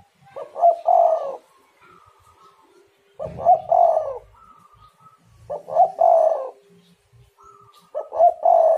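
Spotted dove (tekukur) cooing: four loud phrases about two and a half seconds apart, each a couple of short notes running into a longer coo. Fainter, higher cooing sounds between the phrases.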